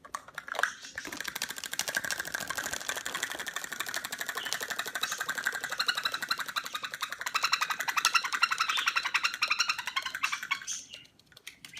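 Rapid, continuous high-pitched chattering, like a small bird or small animal calling, starting about a second in and stopping about a second before the end.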